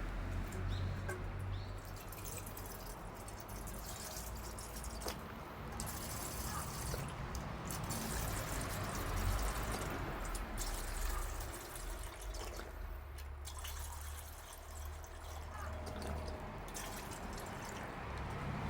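Wood bonfire burning, with scattered small crackles and pops over a steady low rumble.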